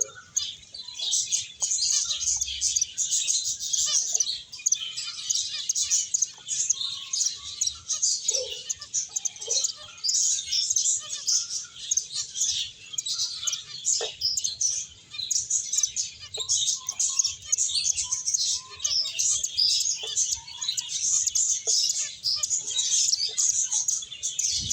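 A group of finches chirping continuously, many short high calls overlapping in a rapid, dense chatter.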